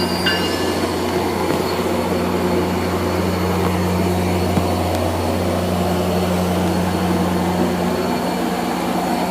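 Metrolink EMD F59PH diesel locomotive running steadily as the train stands at the platform, a constant low hum with no change in pitch.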